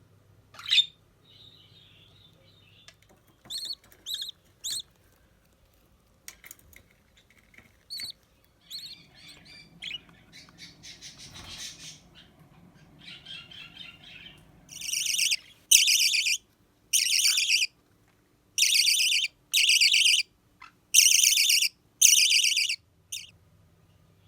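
Budgerigars calling: scattered short chirps, then a run of seven loud, harsh, buzzy calls, each under a second long, in the second half.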